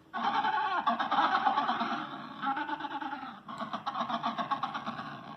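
Recorded Adélie penguin calls played through a Google Home smart speaker: harsh, rapidly pulsing calls that go on for about five seconds, with a brief break about three and a half seconds in.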